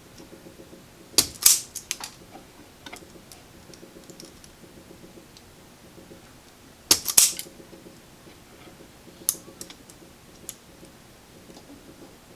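Hand wire strippers clicking and snapping while stripping wire leads: sharp clicks in two clusters, about a second in and about seven seconds in, with a few single snaps between.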